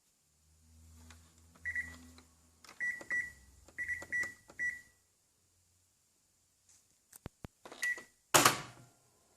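Washing machine control panel beeping as buttons are pressed: about seven short, same-pitched beeps, a few in quick pairs, with light clicks between them. A louder knock comes near the end.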